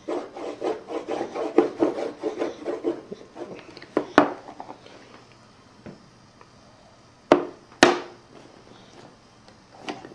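Crayon scribbling on paper in quick back-and-forth rasping strokes for about three seconds, then a few sharp taps against the table.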